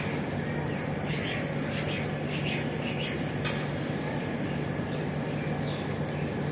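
Steady rumble of a train running along the track, with a few short high chirps in the first half and a single sharp click about halfway through.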